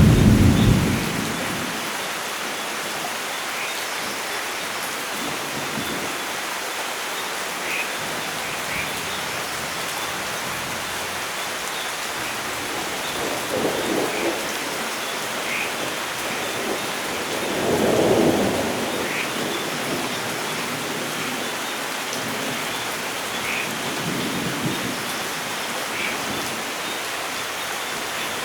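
Steady rain falling with rolls of thunder: a rumble dying away in the first second, two low rolls around the middle, the second the louder, and a faint one near the end.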